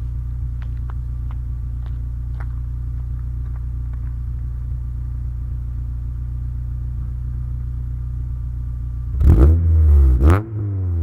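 Honda Civic's B20B VTEC four-cylinder engine idling steadily through its exhaust, then revved sharply twice about nine seconds in, the pitch climbing and dropping back each time.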